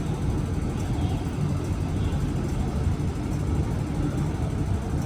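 MTR M-Train electric multiple unit running: a steady low rumble.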